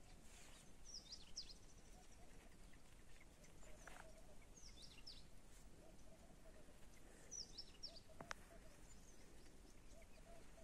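Near silence with faint bird chirps: clusters of short, high, down-slurred calls about every three seconds. Two faint clicks, about four and eight seconds in, the second the sharpest sound.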